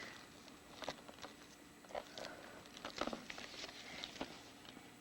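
Faint, irregular taps, clicks and light rustling from a sheet of stickers being handled and peeled at close range, with the most distinct knock about three seconds in.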